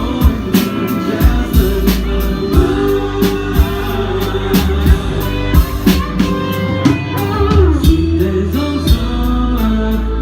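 Live soft-rock band performing, with a steady drum-kit beat, bass, guitar and a singing voice.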